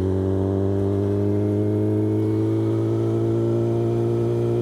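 Motorcycle engine running steadily under load, its pitch climbing slowly as the bike gains speed.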